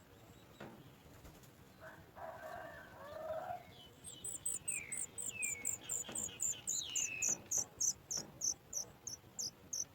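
Birds calling: a short lower call about two seconds in, then several descending whistled calls over a fast, very high chirping that repeats about four times a second.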